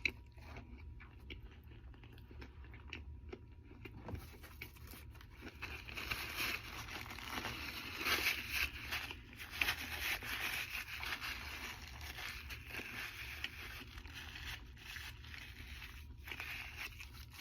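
Close-up eating noises: chewing a double Big Mac, with small crackles and rustles that grow louder about four seconds in.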